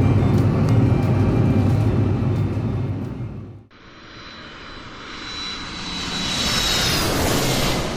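ATR 42-600 turboprop airliner's steady engine drone, fading out about three and a half seconds in. After a cut, a rising aircraft whoosh with a high whine swells louder toward the end.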